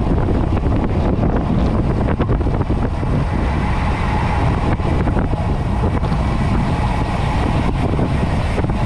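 Loud, steady rush of wind buffeting the microphone of a camera on a moving road bike. It cuts off suddenly at the end.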